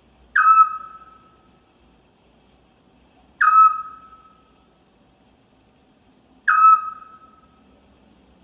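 An owl calling: a single short whistled note repeated three times, about three seconds apart, each note starting sharply and dying away with a ringing tail.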